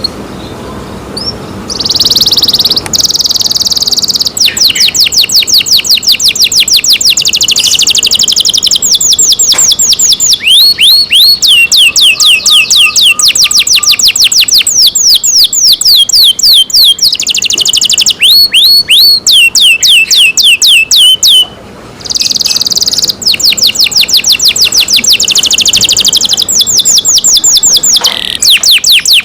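Domestic canary singing loudly, a long song of fast trills made of quickly repeated downward-sweeping notes, with a short break about two-thirds of the way through.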